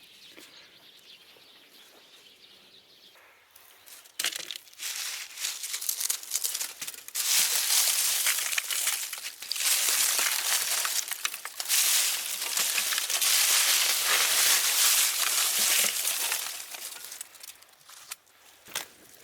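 Dry pruned grape leaves and vine clippings crackling and crinkling in dense bursts, starting about four seconds in and dying down near the end.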